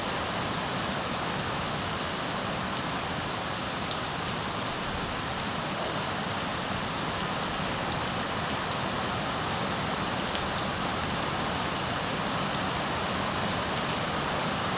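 Rain falling steadily, an even hiss with now and then a single drop ticking.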